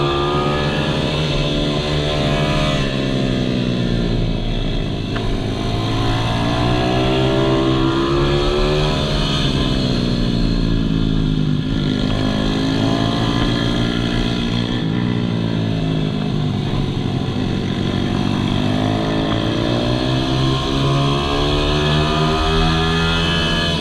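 Malcor Racer R 155cc pit bike's single-cylinder four-stroke engine running hard on track, its pitch climbing and dropping again several times as it revs up and backs off.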